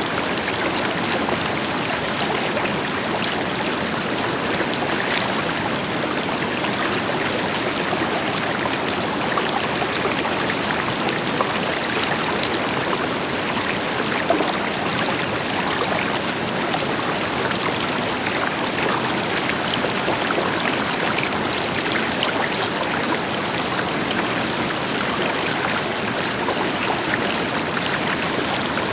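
River water flowing steadily over rocks, with the deeper rush of a waterfall behind it, and a couple of brief louder splashes, the stronger one about fourteen seconds in.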